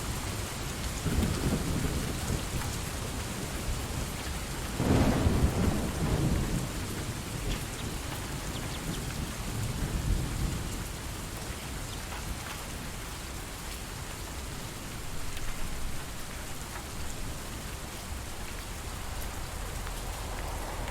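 Steady rain falling, with rolling thunder: a louder rumble about five seconds in and fainter ones around the first and tenth seconds.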